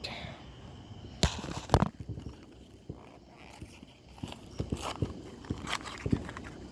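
Footsteps and a few scattered knocks, the loudest just under two seconds in.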